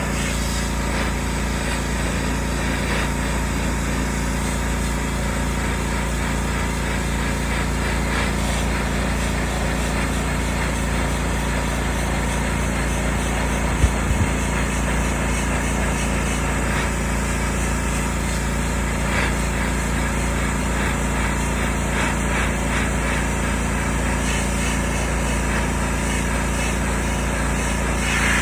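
A small engine running steadily at constant speed, with a single brief knock about halfway through.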